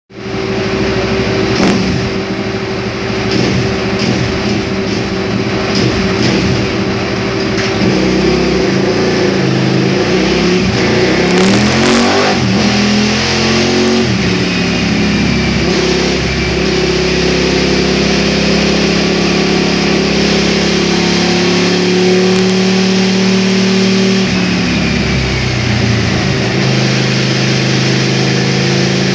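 KTM 990 SMT's V-twin engine running through Akrapovič mufflers, held at steady revs for long stretches, with its pitch dipping and rising again about halfway through.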